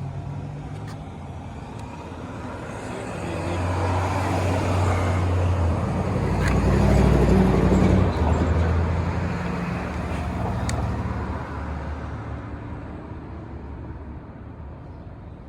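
1960 Triumph Bonneville T120's 650 cc parallel-twin engine running, its pitch shifting in steps. It swells to its loudest about seven seconds in and then fades away.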